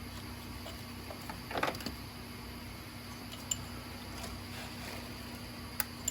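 A few light clicks and a short clatter of hand tools and engine parts being handled while a diesel engine's top end is taken apart, over a steady background hum.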